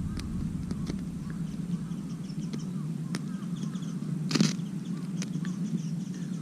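Small campfire just lit from tinder, crackling with scattered sharp pops and one louder snap about four seconds in.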